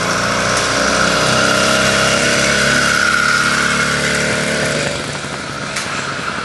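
Small engine of a homebuilt motorized bicycle running as the bike rides past. It grows louder, then drops away sharply about five seconds in.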